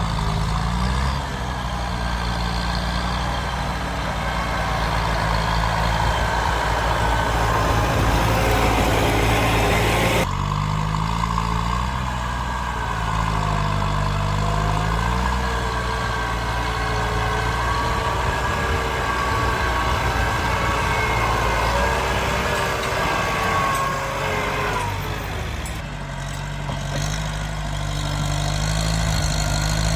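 Diesel tractor engine running at working revs, its pitch rising and falling, with a higher whine wavering above it. The sound changes abruptly about ten seconds in and again near the end.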